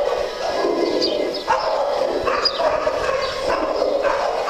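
Small dogs vocalising as they play: a continuous run of barks and yips with high whines mixed in.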